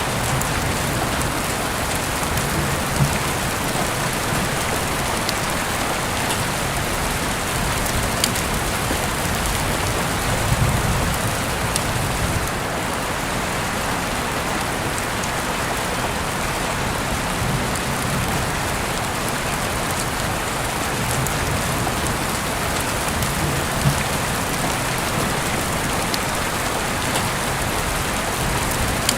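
Heavy rain falling steadily, with a few sharper drops ticking on a hard surface now and then.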